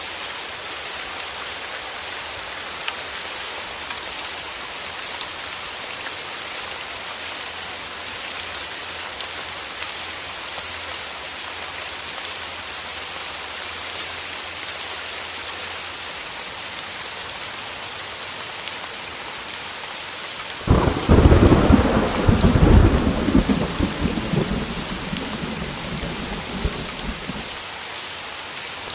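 Steady heavy rain falling, with fine drop ticks. About two-thirds of the way in a thunderclap breaks in suddenly and rumbles low and loud for a few seconds before fading back under the rain, and another peal starts right at the end.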